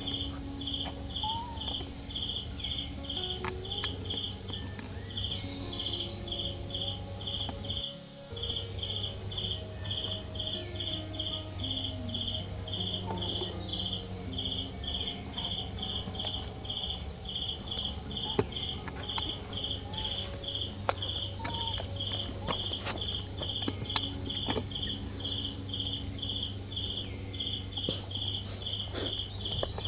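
Insects chirping in a steady rhythm, two to three chirps a second, over a steady high-pitched insect drone, with scattered faint clicks.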